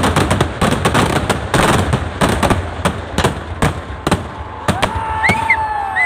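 A fireworks display: a rapid, dense string of firecracker cracks and bangs that thins out to scattered reports toward the end. High whistling tones come in near the end.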